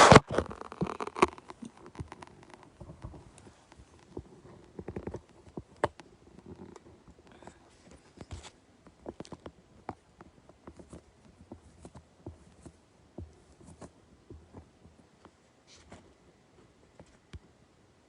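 Handling noise from a camera being repositioned on its mount: irregular clicks, taps and rubbing, with a loud knock at the start and quieter scattered clicks after.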